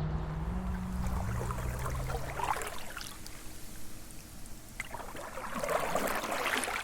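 Water splashing and trickling around a canoe as paddles dip and pull, with a few sharp splashes about two seconds in and a longer run of splashing near the end.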